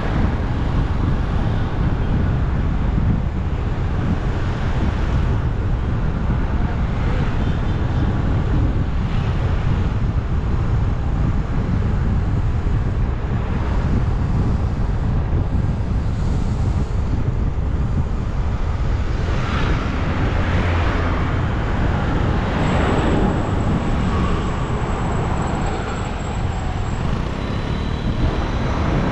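Steady wind rumble on the microphone of a moving rider, mixed with road and traffic noise. The noise grows brighter for a few seconds from about twenty seconds in.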